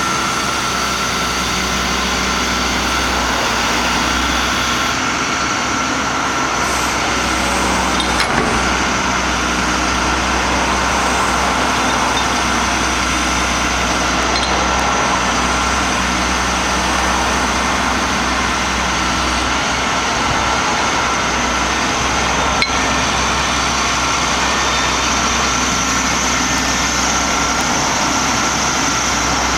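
Diesel engine of a Caterpillar M325C MH wheeled material handler running steadily, with a steady high whine over it.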